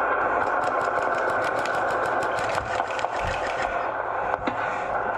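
Airsoft gun firing on full auto: a long run of rapid clicks, about ten shots a second, which thins out and stops about three and a half seconds in.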